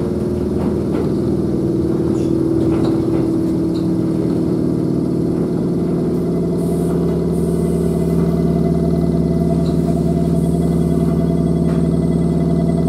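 Interior of a Kōnan Railway electric train slowing to a stop: a steady hum from the car's equipment under faint wheel and track noise, its tone dropping lower about three seconds in.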